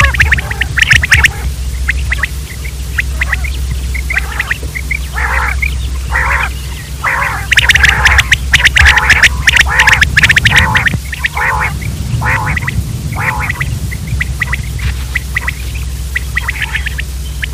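Quail calling over and over in short, rapid bursts, busiest and loudest about halfway through, over a steady low hum.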